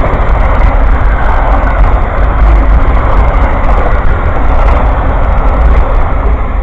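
Amtrak Auto Train passing close by: a loud, steady rumble of wheels on rail with a heavy low drone, easing off right at the end as the train goes by.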